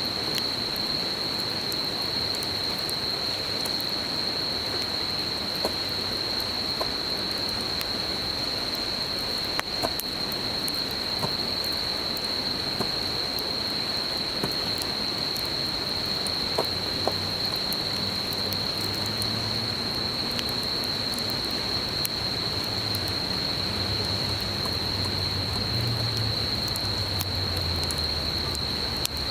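A wood campfire crackling with scattered small pops over the steady rush of a river. An insect keeps up one continuous high-pitched trill, and a faint low hum joins in the second half.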